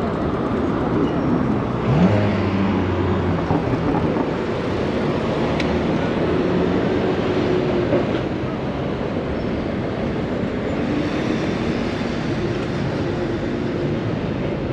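Busy city road traffic heard from a bicycle: a steady wash of noise with a motor vehicle's engine hum, which rises briefly in pitch about two seconds in.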